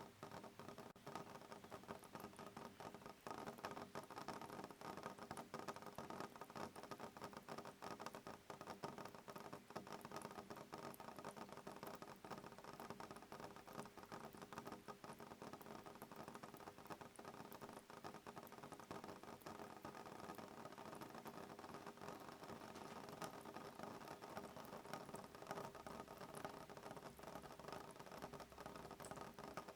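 Soft rain pattering steadily on a window pane, a dense, even spatter of small drops with no thunder.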